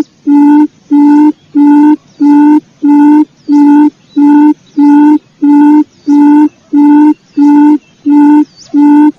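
Quail lure call played back: one low, steady hooting note repeated about one and a half times a second, each note the same. The loud series cuts off just before the end.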